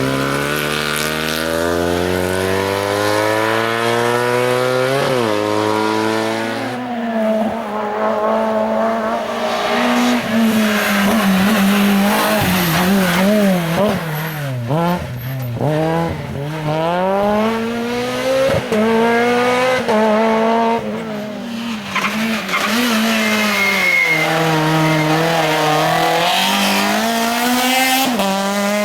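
Race car engine working hard through a slalom course. It climbs in pitch under full throttle, drops at a gear change, then revs up and down many times with quick throttle blips as the car brakes, downshifts and accelerates between chicanes.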